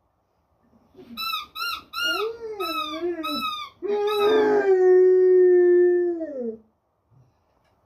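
Pit bull vocalizing while chewing a ball: a run of about five short, high squeaks, then one long howling whine held steady for over two seconds that drops in pitch as it ends.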